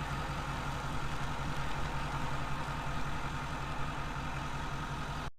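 Pickup truck engine running steadily, a low even hum, which cuts off suddenly just before the end.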